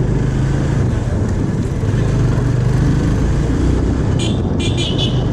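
Motorcycle engine running steadily while riding, with road noise. A few short high-pitched chirps come near the end.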